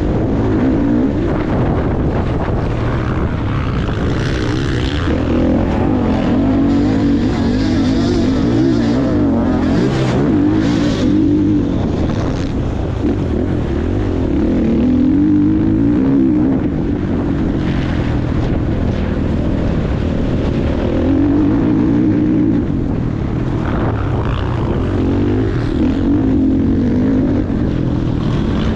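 Motocross bike engine running hard, its pitch rising and falling again and again as the throttle is opened and closed around the track.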